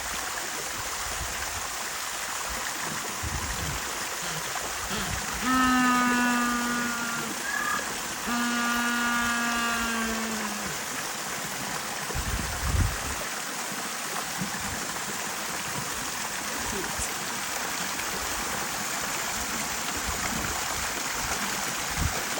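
Penguins calling: two long, held, donkey-like calls, each about two seconds, the first about five seconds in and the second right after it, over steady running water.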